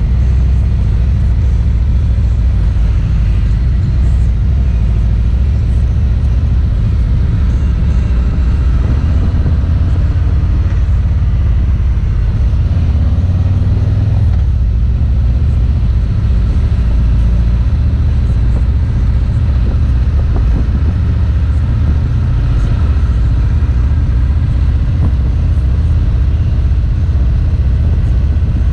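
Motorcycle riding at a steady road speed: its engine running with a constant low rumble.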